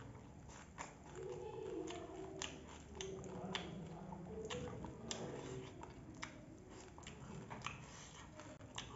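Faint chewing and crunching of food eaten by hand, with scattered sharp clicks.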